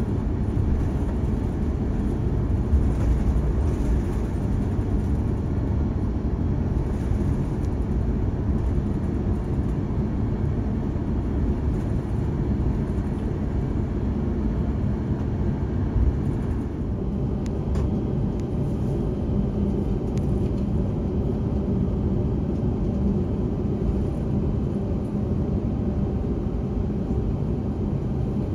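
Steady low rumble of jet aircraft noise, with a hiss above it that drops away a little past halfway through; a single short knock comes just before that change.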